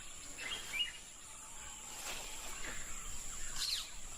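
Rainforest ambience: a steady high-pitched insect drone with scattered bird chirps and a few quick descending calls.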